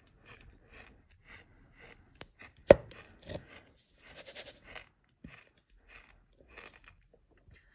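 Gritty crunching of sand being chewed close to the microphone, in short crisp crunches about two a second. One sharp, much louder click comes a little under three seconds in, and a longer grainy scraping crunch runs for about a second around the four-second mark.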